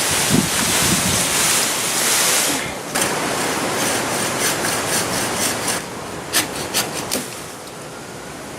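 Gusty wind buffeting the microphone, loudest for the first few seconds and then easing. A string of short sharp clicks follows in the second half.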